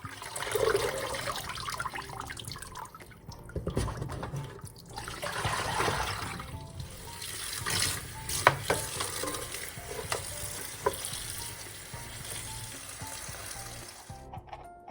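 Water running steadily, as from a tap, with a few light clinks partway through; it starts and stops abruptly.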